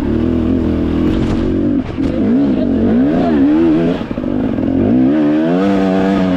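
Dirt bike engine running under throttle. Its pitch is steady at first, then rises and falls a few times as it is revved, and climbs again near the end.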